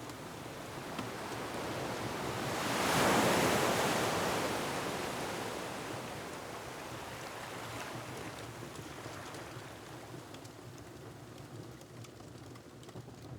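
Ocean wave breaking on a rocky shore, swelling to a peak about three seconds in and then slowly washing away into a steady surf hiss, with faint, sparse crackles from a wood fire.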